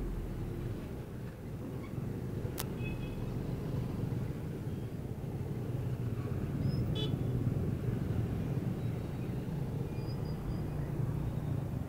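Steady low rumble of vehicle engines at a busy roadworks, with a sharp click about two and a half seconds in and short high horn toots, once soon after the click and again about halfway through.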